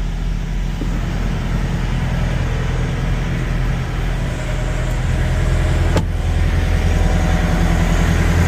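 Semi-truck diesel engine idling steadily, a little louder from about halfway through, with one sharp click about six seconds in.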